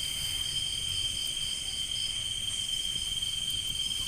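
A steady chorus of insects such as crickets, trilling continuously at several high pitches.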